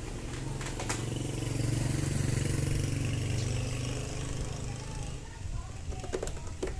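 A motor vehicle's engine hum that grows louder and then fades out about five seconds in, with a few sharp clicks.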